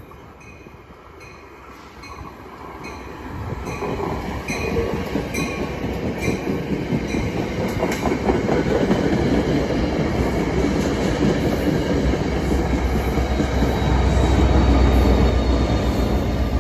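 NJ Transit passenger train passing close by, its coaches rolling and clattering. The sound builds to a deep diesel rumble as the PL42AC locomotive on the rear goes past near the end. A high ding repeats at a steady pace through the first half.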